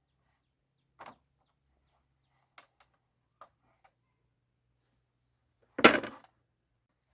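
A single knock, a few faint clicks, then one loud bang with a short rattling tail about six seconds in.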